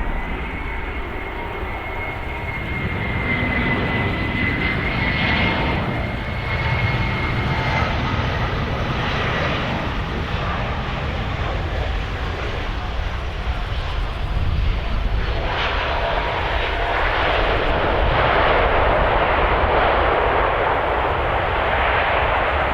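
Jet airliner engines running, with a thin high whine over the rushing engine noise for the first several seconds. The noise builds and is loudest near the end.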